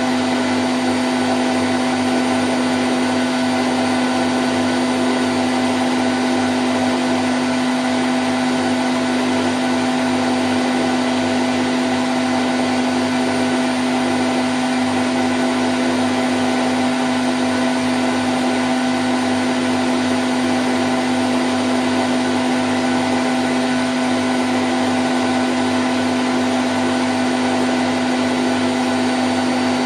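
Candy Grand O' F106 front-loading washing machine on its spin cycle at 1000 rpm: a loud, steady hum with one strong low tone over an even rushing noise, unchanging throughout.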